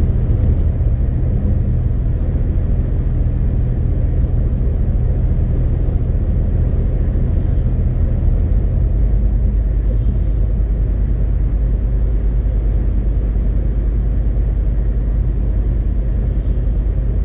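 MAN TGX 18.520 truck's inline-six diesel and road noise making a steady low drone while driving, its lowest note growing stronger about halfway through.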